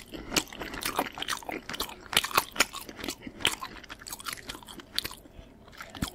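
A person chewing a mouthful of pasta close to the microphone: a quick run of wet mouth smacks and clicks that thins out about five seconds in.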